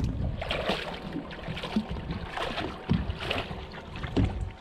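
Water splashing and sloshing at the side of an offshore fishing boat, with wind buffeting the microphone and several short, sharper splashes.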